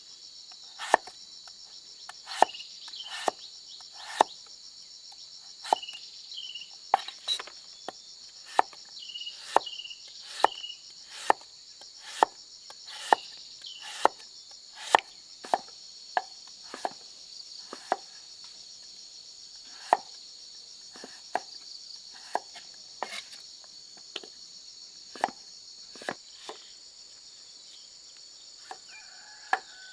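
Irregular sharp chopping strikes, roughly one or two a second, growing sparse and faint in the last few seconds, over a steady high drone of insects.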